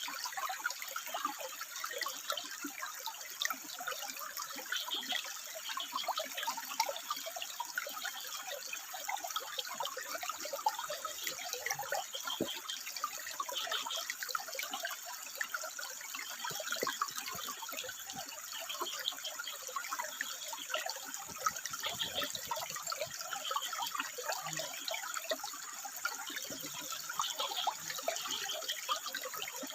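Water trickling and splashing over rocks in a steady, even stream. Short high sounds repeat every second or two above it.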